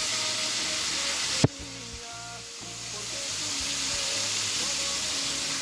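Floured pieces of salt cod frying in plenty of hot oil in a pan, sizzling steadily. A sharp click about a second and a half in, after which the sizzle drops briefly and then builds back up.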